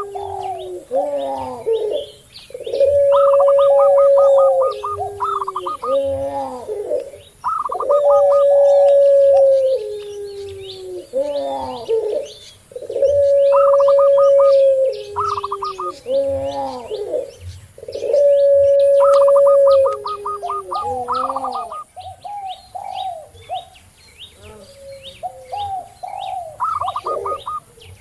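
Caged doves cooing together: a puter pelung (domestic Barbary dove bred for a long voice) gives a long, steady coo that drops in pitch at the end, four times about five seconds apart. Zebra doves (perkutut) and spotted doves (tekukur) coo in quicker, higher notes between. Small birds chirp throughout.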